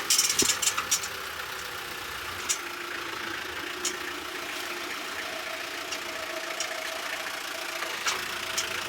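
A vehicle on the move: a steady engine hum under a rushing noise, with a few sharp rattles and clicks.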